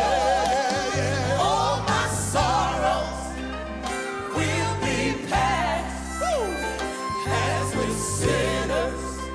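Gospel quartet song playing: several voices singing with a wide vibrato over a steady bass line and accompaniment.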